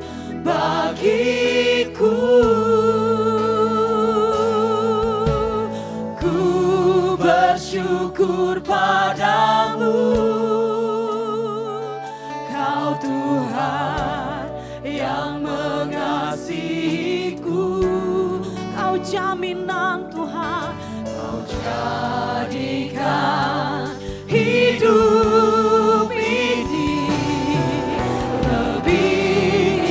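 Congregational worship song: voices singing held, wavering notes together over keyboard chords and bass.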